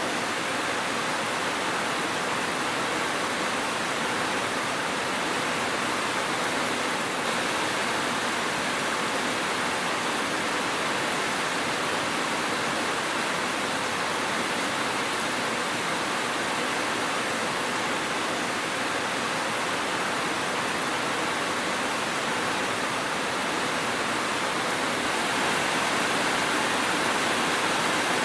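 Steady rain falling, an even hiss with no distinct drops or thunder, growing slightly louder near the end.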